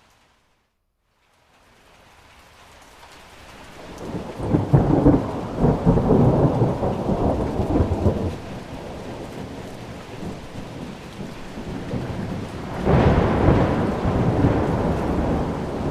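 Thunder rumbling over steady rain. After a moment of near silence at the start, the rain fades in, a long rolling peal of thunder comes about four seconds in, and a second peal follows near the end.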